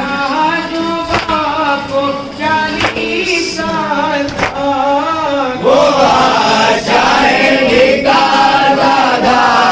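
Group of male voices chanting a noha, an Urdu mourning lament, in a steady rhythm, with a sharp slap about every second and a half; the singing grows louder and fuller about six seconds in.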